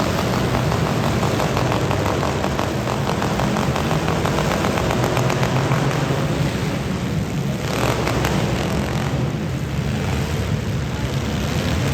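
Several demolition derby cars' engines running together in a loud, steady din.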